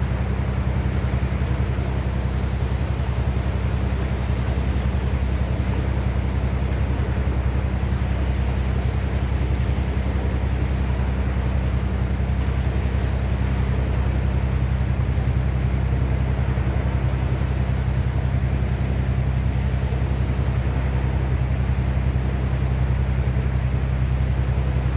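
Steady low engine drone with a constant rush of wind and water over it, unchanging throughout.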